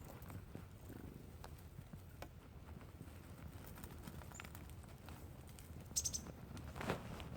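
A small wild bird gives a quick run of high chirps about six seconds in, over faint light tapping, followed by a short rustling burst.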